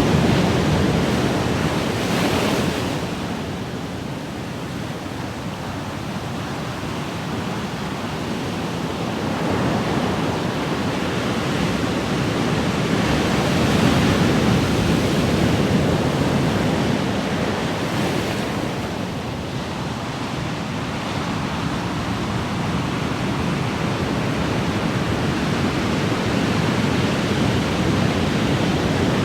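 Ocean waves breaking and washing ashore: continuous surf noise that swells and eases every few seconds, with a brief hissing wash now and then.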